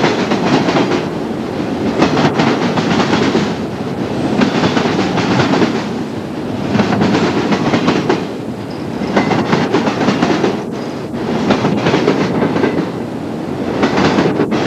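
Freight train of autorack cars rolling past, its steel wheels clacking over the rail joints in a cluster of clicks every two seconds or so as each car's trucks go by, over a steady rumble.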